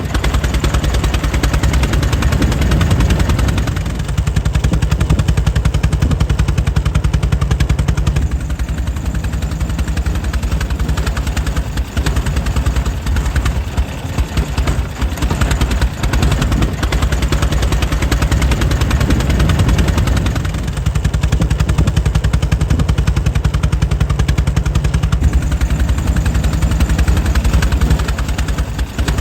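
Air-cooled 1904 Mitchell engine running steadily: a rapid, even train of firing pops, dipping slightly in level about every eight seconds.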